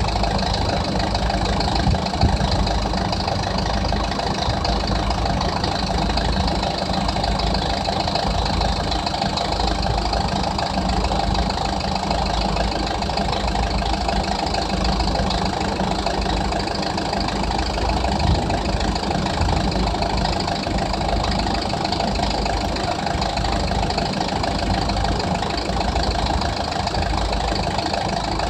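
A motor vehicle's engine idling steadily, with a constant low rumble.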